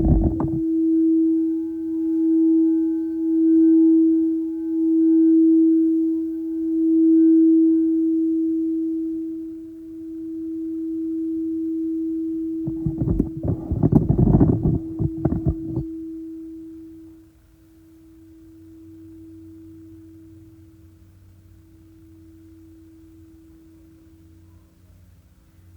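A crystal singing bowl rings one steady tone, slowly wobbling in loudness at first. About 13 seconds in comes a dense rustling burst lasting a few seconds, and at about 17 seconds the tone drops to a faint ring that carries on.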